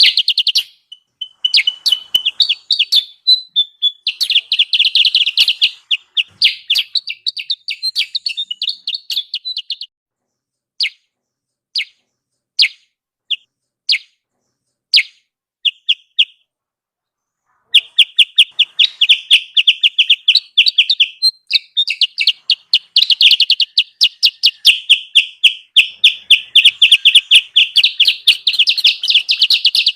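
Recorded lure call of the kutilang sutra: rapid runs of high chirps that thin to a few single chirps and a short pause around the middle, then resume as dense, continuous chattering.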